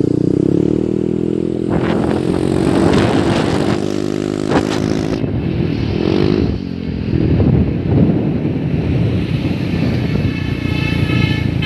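Heavy trucks and motorcycles going past, their engines running loudly with the pitch gliding up and down as they change speed, and a few knocks and clatters among them.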